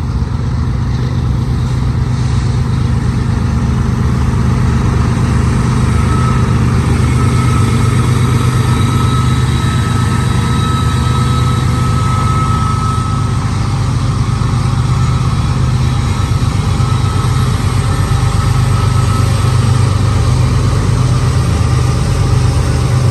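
Diesel-electric freight locomotives running steadily with a deep engine throb, growing slightly louder, and a high whine that rises and fades in the middle.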